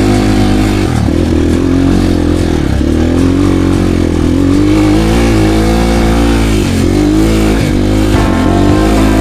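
Motorcycle engine running under load. Its revs drop and pick up again every second or two, with clear dips about a second in, near three seconds, and several times toward the end.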